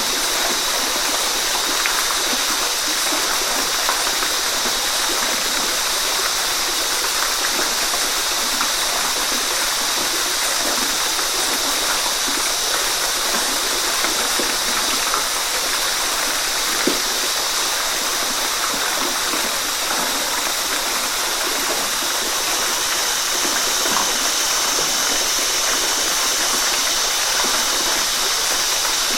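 Waterfall: a steady, continuous rush of falling water with small splashes and gurgles scattered through it.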